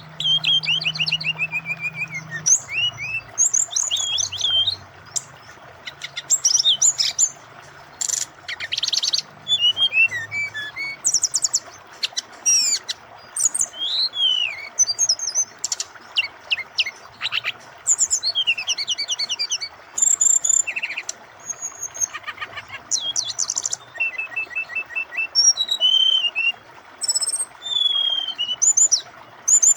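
Brown-chested jungle flycatcher (SRDC) singing a long, varied song of rapid high trills, falling whistled slurs and repeated sharp chips in quick bursts with short pauses, over a steady rush of flowing water.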